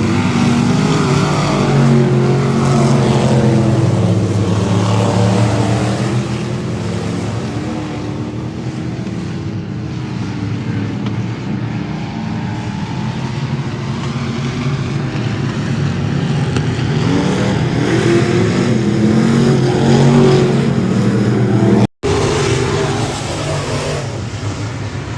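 Dirt-track race cars at speed, several engines revving and swelling as cars pass. The sound drops out for an instant near the end, where one clip cuts to the next.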